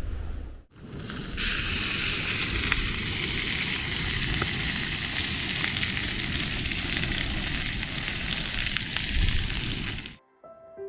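Sea surf washing over a rocky shore, a steady loud hiss that starts after a short gap and cuts off suddenly near the end.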